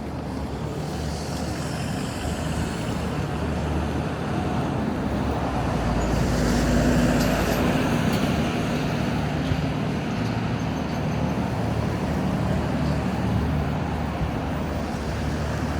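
Busy road traffic with a steady engine drone, swelling about six seconds in as a heavy vehicle passes close by, then settling back.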